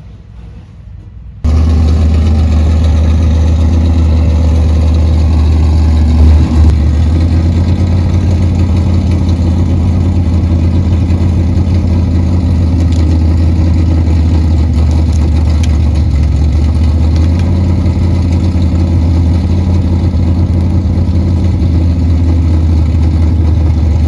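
An engine idling loudly at a steady pitch, starting abruptly about a second and a half in.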